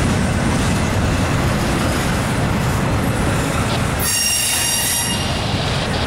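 Double-stack intermodal well cars of a freight train rolling past: a steady loud rumble of steel wheels on rail. About four seconds in, a brief high-pitched wheel squeal sounds over it for about a second.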